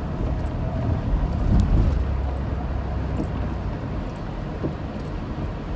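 Car driving, a steady low rumble of engine and road noise heard from inside the cabin, with faint ticks about once a second.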